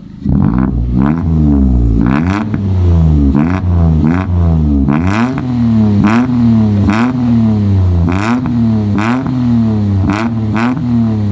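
Toyota Aygo engine through a custom 2.5-inch catback exhaust, revved hard in repeated quick blips. The pitch rises and falls again and again, starting suddenly just after the beginning.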